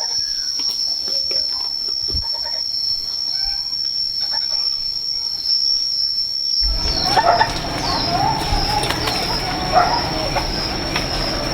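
Steady high-pitched insect drone with a few faint chirps. About seven seconds in, a louder rushing background comes in under it with short bird-like chirps.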